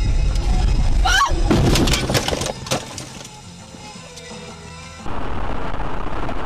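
A vehicle collision caught on a dashcam: a short squeal about a second in, then a quick run of crashing, breaking impacts, with music underneath. About five seconds in it cuts abruptly to steady road noise of a car driving.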